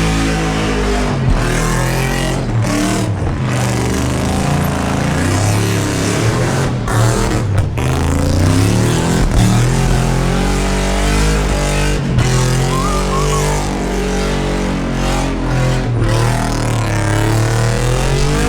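V8 engine revving hard in a burnout, its pitch rising and falling again and again as the throttle is worked.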